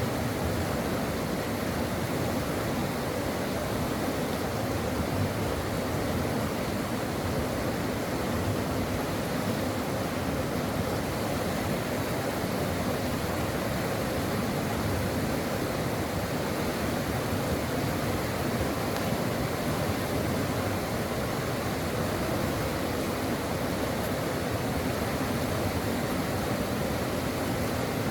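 Brook water flowing in a steady, even rush with no breaks or changes.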